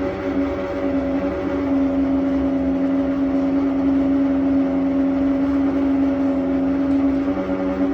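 Baxi Eco5 Compact 24F gas boiler giving off a loud, steady hum on one strong pitch. This is the hum it makes while heating the indirect hot-water cylinder, even though the heating system and the cylinder have been flushed.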